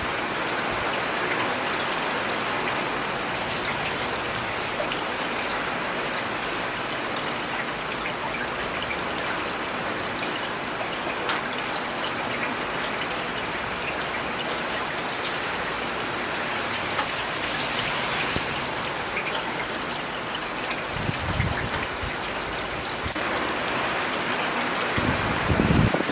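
Steady rain falling in a city, an even dense patter of drops. A low rumble swells briefly twice near the end.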